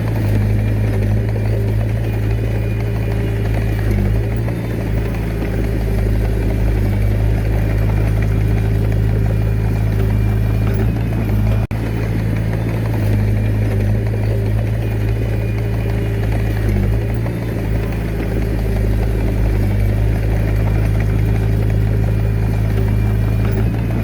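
Diesel engine of a Komatsu D21A mini bulldozer running at a steady speed, with a momentary break just before halfway.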